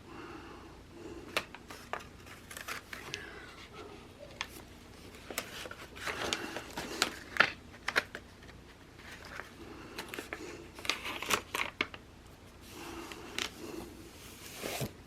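Planner stickers and paper being handled: sticker sheets rustling, stickers peeled off and pressed onto the page, with scattered sharp clicks and taps.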